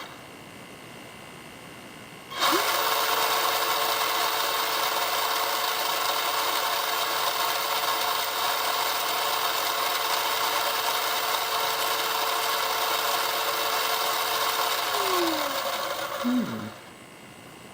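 Kyosho Blizzard FR's stock electric motors and gearbox running free at full throttle on a LiPo pack: a steady high whine that starts suddenly about two seconds in. Near the end it winds down in pitch, gives one short second burst and stops.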